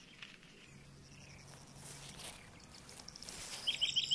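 Quiet garden ambience with a faint low steady hum, then small birds chirping in a quick run of short falling notes near the end.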